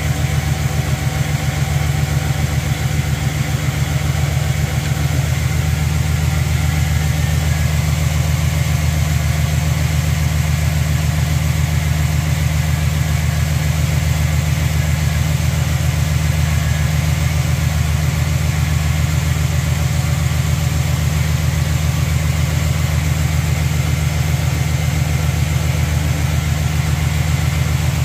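1979 Chevrolet Caprice's V8 engine idling steadily with an even, fast pulse, cold and just started for a test run of the new radiator's cooling system.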